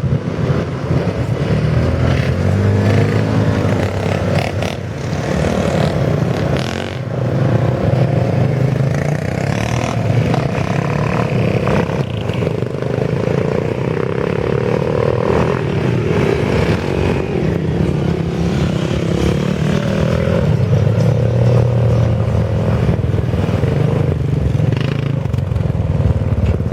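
Several motorcycle engines running and revving at once, their pitches rising and falling and overlapping as the bikes pull away at the start of a motorcycle raid.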